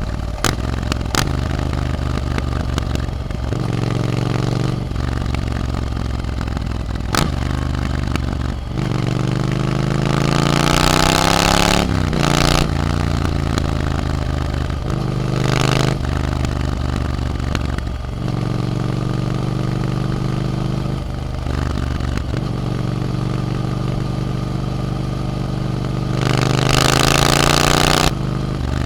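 Triumph Scrambler 900 parallel-twin engine through an Arrow aftermarket exhaust, under way and working through the gears. The pitch climbs under acceleration about ten seconds in and again near the end, with steps where gears change, and a few sharp clicks come early on.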